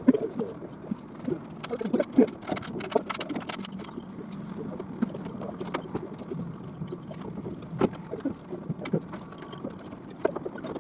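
Irregular clatter of many short knocks and clicks, several a second, with a few louder knocks.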